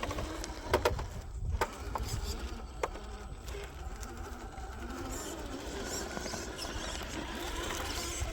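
Electric motors and geared drivetrains of two 1/10-scale RC rock crawlers whining as they crawl at low speed, with a few sharp clicks in the first three seconds.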